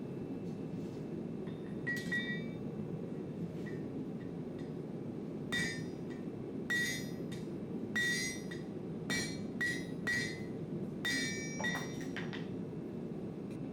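Hammer blows on a steel anvil, roughly ten ringing strikes at an irregular working pace, spaced a second or less apart from about the middle onward. A steady low rush runs underneath.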